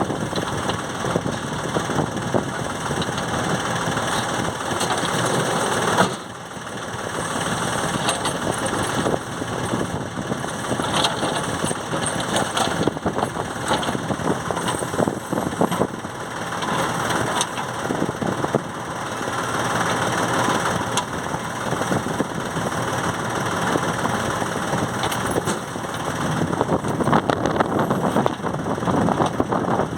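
Diesel engine of a JCB backhoe loader running steadily while loading rock, with irregular sharp knocks and clatters now and then.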